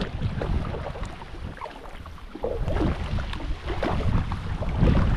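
Wind buffeting the microphone in gusts, a dense rumbling rush that swells louder in the second half.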